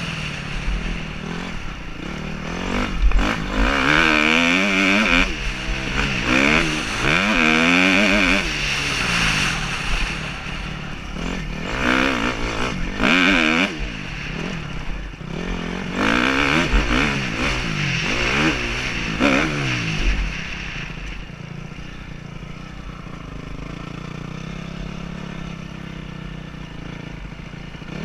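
Dirt bike engine revving up and down repeatedly as it accelerates and shifts, with wind buffeting the helmet-mounted microphone. In the last several seconds the engine settles lower and steadier.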